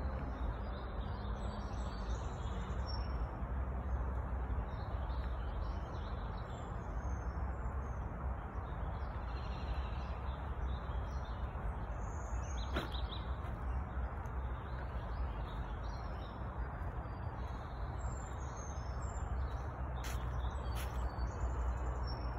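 Small birds chirping and calling in woodland, faint and scattered, over a steady low rumbling noise that carries most of the loudness. A few sharp clicks stand out about halfway through and twice near the end.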